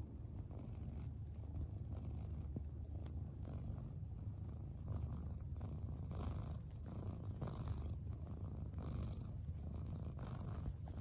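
A cat purring close up: a steady low rumble that swells and eases in slow, regular breath cycles.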